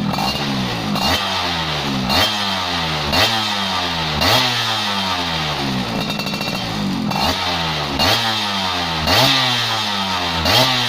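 Yamaha F1ZR two-stroke motorcycle engine revving through an aftermarket chrome 'brat' exhaust. The throttle is blipped about once a second, and each time the revs jump up and then slide back down. The blips pause for a couple of seconds midway.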